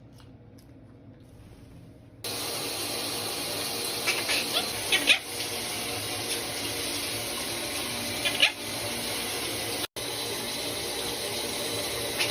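Shower head spraying water on a mist setting: a steady hiss that starts about two seconds in. A few short, rising calls from parrots come over it.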